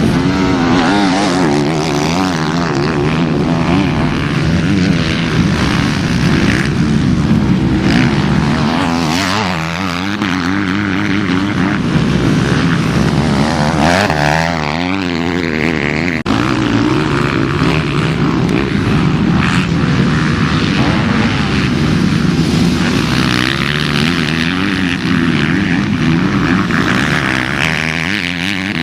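Several motocross bikes racing together, their engines revving up and down as they shift and corner, with pitches overlapping and rising and falling as bikes pass.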